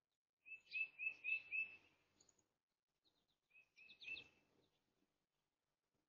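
A songbird calling: a quick run of five short, clear notes on one pitch, then after a pause a run of three more.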